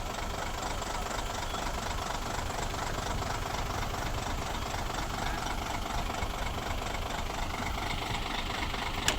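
Heavy machine engine, the stuck truck's or the excavator's, idling steadily, with one sharp click near the end.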